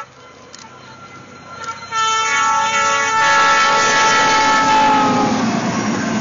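A freight train's locomotive horn sounds a chord of several steady tones as the train rushes past at speed, ploughing through deep snow. The rushing noise of the train and flying snow swells, and the horn dips slightly in pitch as it passes, then fades into the noise.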